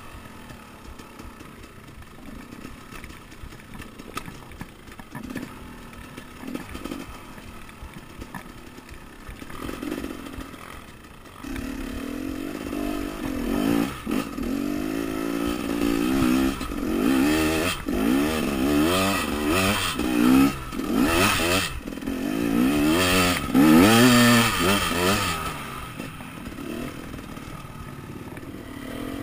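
Enduro dirt bike engine on a trail ride, running at low revs for about the first ten seconds, then louder with repeated rises and falls in revs as the throttle is opened and closed, settling lower again near the end.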